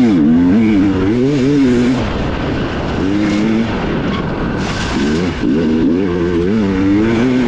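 Dirt bike engine heard on board during an enduro race, revving up and down as the rider works the throttle, with the pitch climbing and dropping again and again. Around the middle the revs fall back briefly before climbing again.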